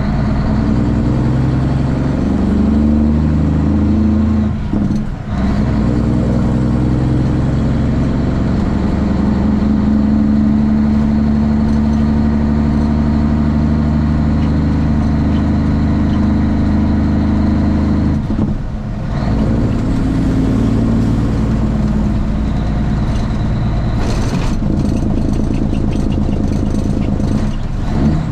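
Straight-piped Cummins ISX inline-six diesel of a Kenworth T800 truck running under load, its pitch climbing, then breaking off briefly at gear shifts about 5 seconds in and again about 18 seconds in before pulling again.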